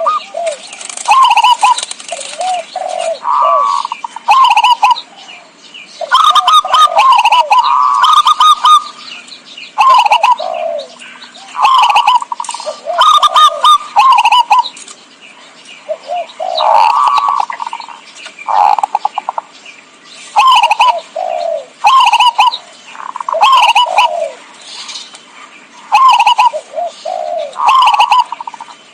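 Zebra dove (perkutut) cooing: short phrases of quick gliding coo notes repeated about every two seconds, with thin high chirps over them.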